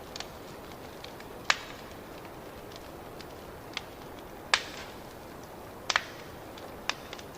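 Wood fire crackling in a fireplace: a steady hiss under sharp, irregular pops, the loudest about a second and a half, four and a half, and six seconds in.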